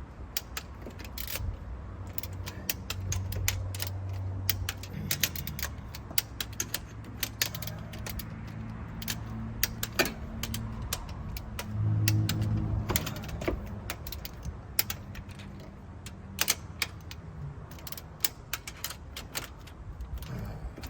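Ratchet torque wrench clicking on cylinder head bolts during the first 35 lb-ft tightening pass: irregular quick clicks and small metal knocks. Under them a low hum comes in about two seconds in, swells around twelve seconds and stops a few seconds before the end.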